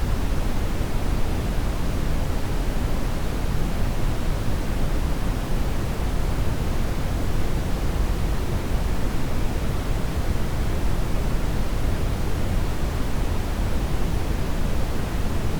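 Steady brown noise: an even rushing hiss, heaviest in the deep low end, with no change in level.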